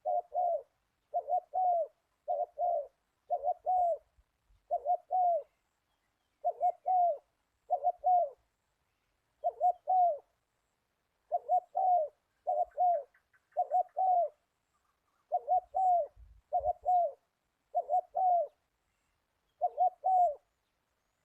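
A dove cooing steadily: short paired coos, each note dipping slightly in pitch, repeated about once a second.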